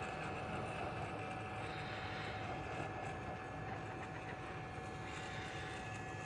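Hot air rework station blowing steadily on an iPhone 12 motherboard during a reflow: an even rushing hiss with a faint steady whine through it.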